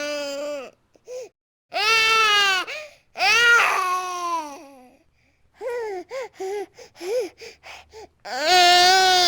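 Infant crying: long wails with short breaths between them, then a run of short, choppy sobbing cries, then another long wail near the end.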